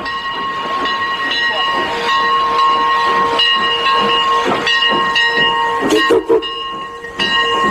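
Steam locomotive whistle blowing a long, steady blast of several pitches at once over the hiss of steam, broken briefly about six seconds in.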